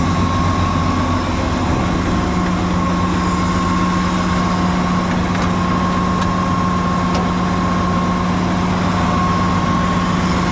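Cotton picker's diesel engine running steadily at idle, with a thin, steady high whine over the hum.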